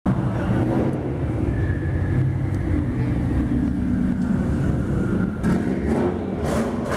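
Car engine running with a steady low rumble, with a rushing hiss joining in after about five and a half seconds.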